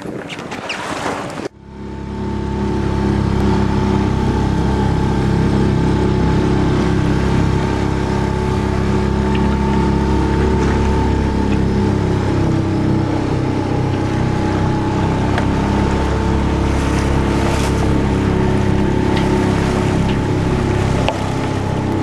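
A boat engine running steadily at constant speed with an even hum. It starts abruptly after a short burst of rushing noise about a second and a half in.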